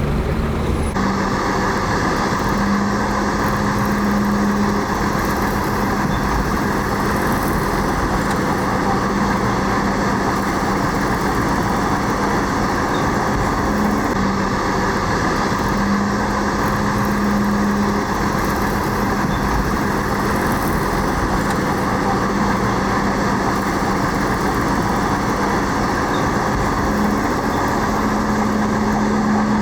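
Heavy diesel earthmoving machinery running steadily, with a low engine hum that swells and eases several times as the load changes.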